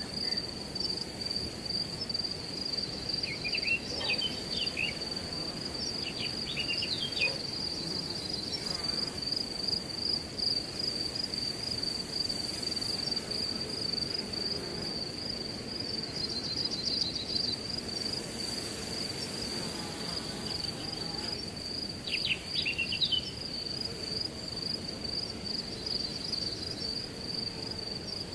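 Crickets trilling steadily at one high pitch over the low rustle of wind in grass, with a few short bird chirps about three, six and twenty-two seconds in.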